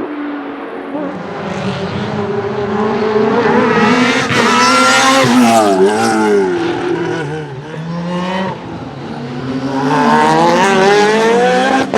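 Race car engine pulling hard, its pitch climbing. About halfway it lifts off and the pitch dips, then it rises again under throttle toward the end.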